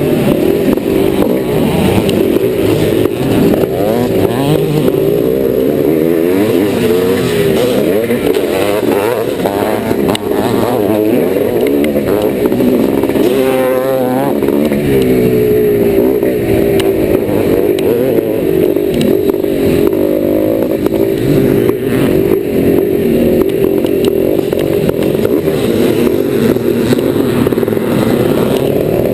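1990 Yamaha YZ490's single-cylinder two-stroke engine being ridden under way, its pitch rising and falling again and again with the throttle.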